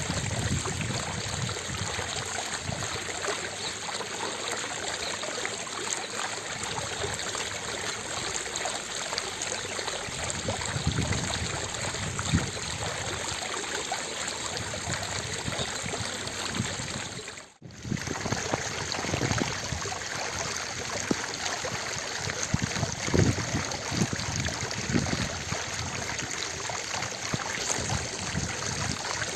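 Fountain water falling and splashing steadily into its basin. About two-thirds of the way through, the sound dips out for a moment and then comes straight back.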